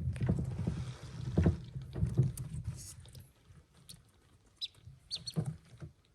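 Newly hatched call duckling giving a few short, high peeps in the second half, after a stretch of scuffling and light knocks in the first half.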